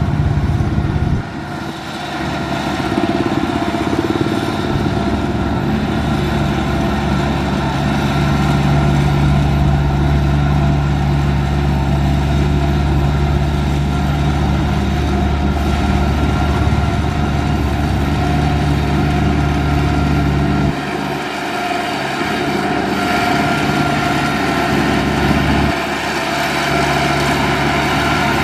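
Diesel engine of heavy earthmoving equipment running steadily. Its low rumble drops away briefly a little over a second in and again for about five seconds near the end, as the engine's load or speed changes.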